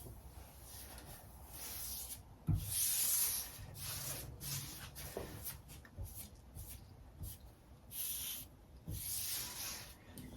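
Brush strokes spreading top coat over a butcher block countertop: a run of rubbing swishes, each about a second long, with a knock about two and a half seconds in.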